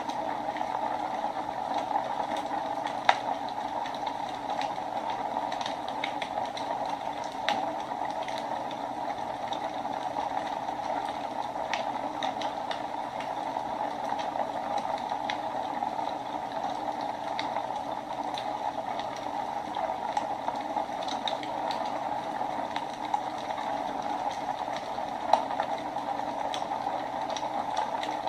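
Wood fire burning in a fireplace: a steady hiss and rush of flames with frequent sharp crackles and pops, a couple of louder pops about three seconds in and near the end.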